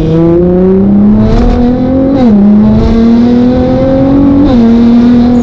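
Nissan GT-R R35's twin-turbo V6 under hard acceleration, revs climbing steadily, with a quick upshift about two seconds in and another near the end.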